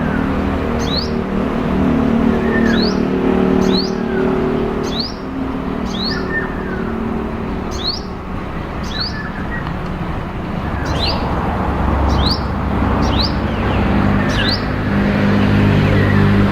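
Olive-backed sunbird calling: short, sharp, high notes that sweep downward, repeated about once a second, with a few lower slurred notes between them. A steady low hum runs underneath.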